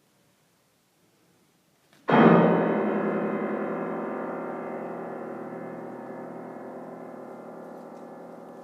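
Piano: after a near-silent start, one loud chord is struck about two seconds in and left to ring, slowly dying away.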